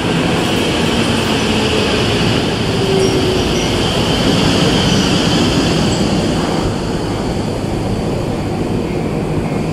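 Tobu 70000-series electric commuter train running past on the station tracks: a steady rail rumble of wheels and motors, with a brief faint high wheel squeal about three seconds in. The sound eases a little as the last car clears.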